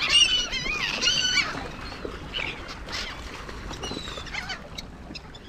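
Birds calling: several high, wavering calls in the first second and a half, then a few fainter calls.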